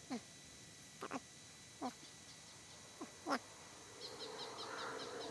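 Birds calling: short whistles that sweep quickly down in pitch, repeated about once a second, then quick high chirps near the end.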